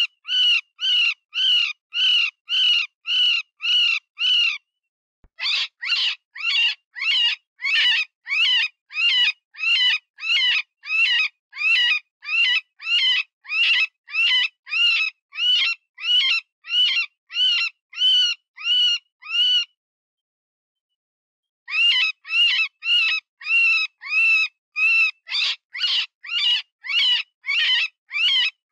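Cottontail rabbit distress call used as a predator lure: a rapid series of high, wavering cries, about two a second. They break off briefly about five seconds in and for about two seconds near the twenty-second mark, then resume.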